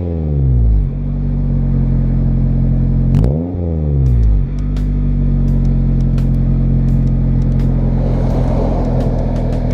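2013 Toyota Corolla's four-cylinder engine through a Borla aftermarket exhaust: revs dropping back to idle in the first second, one short blip of the throttle about three seconds in, then a steady idle.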